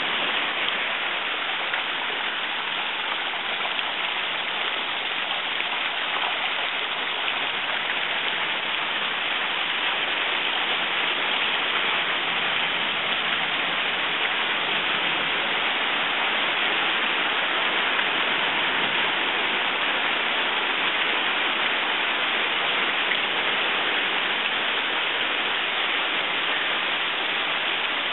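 Heavy rain falling in a steady downpour, a dense continuous hiss of water.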